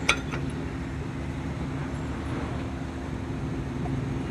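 An engine running steadily with a low, even drone, and a single sharp metallic knock right at the start.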